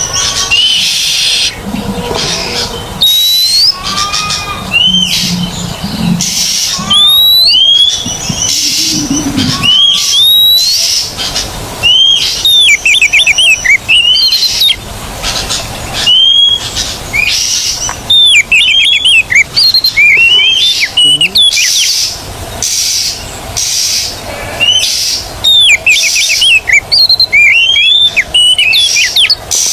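Oriental magpie-robin singing loudly and without pause: rising whistled notes mixed with fast runs of repeated chattering notes. This is the full, vigorous song that keepers call 'gacor'.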